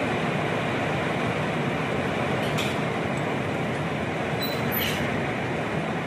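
Heavy wind-driven rain making a steady, dense hiss, with two brief clicks, one about two and a half seconds in and one near five seconds.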